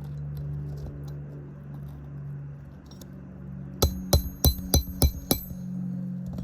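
Hammer driving a roofing nail while a shingle is refastened: six quick, sharp strikes with a metallic ring, roughly three a second, starting a little before halfway. A steady low hum runs underneath.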